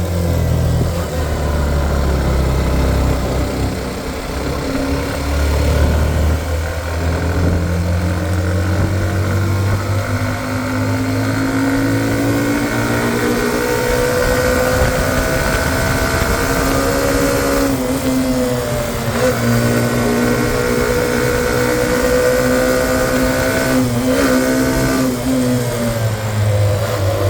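Hero Xtreme 125R motorcycle's single-cylinder engine pulling uphill, its pitch rising slowly and dipping briefly twice, about two-thirds of the way through and near the end. A steady low rumble runs underneath.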